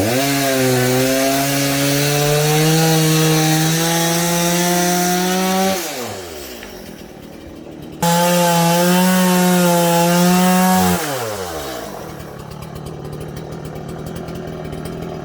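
Two-stroke chainsaw held at full throttle while cutting wood, running high for about six seconds, dropping back toward idle, then revving up again suddenly about eight seconds in for another three seconds before falling back to a quieter idle.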